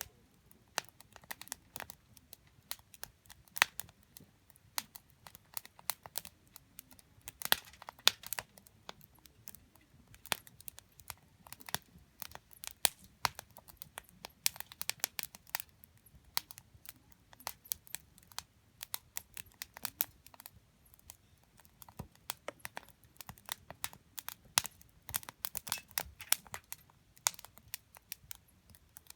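Wood campfire burning, its logs crackling and popping in irregular sharp snaps over a low, soft rumble of flame.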